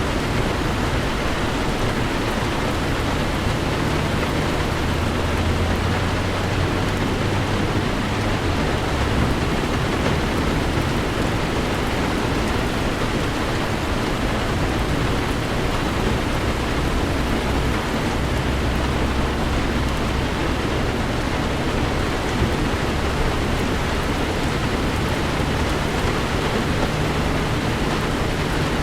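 Heavy rain falling on a moving car, heard as a steady hiss. A low rumble underneath swells twice, a few seconds in and again about two-thirds of the way through.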